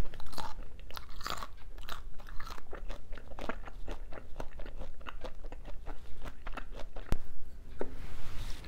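Close-miked chewing of a mouthful of spicy braised seafood and bean sprouts: rapid crisp crunches and wet crackles that thin out toward the end, with one sharp click about seven seconds in.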